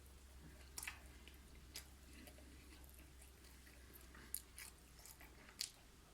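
Faint chewing of a kebab sandwich, with a few soft mouth clicks and crackles over near silence.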